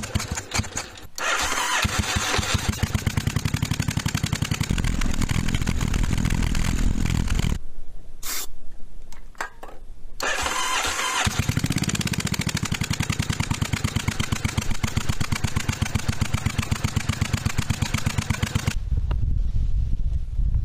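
1982 Yamaha Virago XV750's air-cooled V-twin running roughly with a fast, uneven firing beat. About a third of the way in it cuts out, gives one short burst, and catches again about three seconds later. The owner finds the front cylinder is running lean and backfiring out of the carb.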